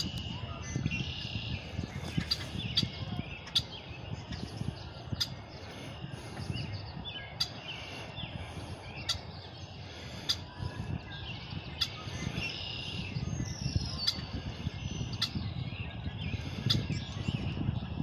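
Wild songbirds calling: short sharp chips at roughly one a second, mixed with brief chirps, over a low steady rumble.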